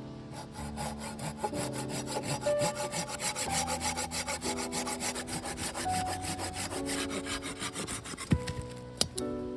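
Hand saw cutting through wood in quick, even back-and-forth strokes that stop about a second before the end, with soft background music underneath.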